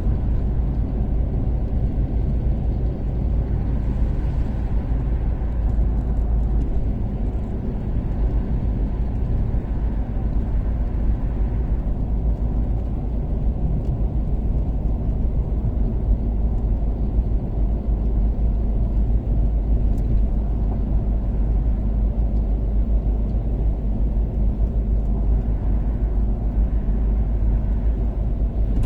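Toyota Caldina ST246W with its turbocharged 3S-GTE four-cylinder cruising at steady speed on an expressway. Engine and road noise blend into a deep, even drone.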